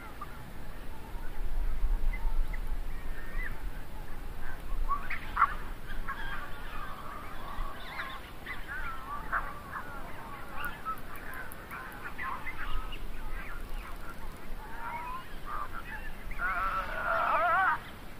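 Birds calling with short, repeated honking calls that build to a dense, wavering burst of calls near the end, over an intermittent low rumble.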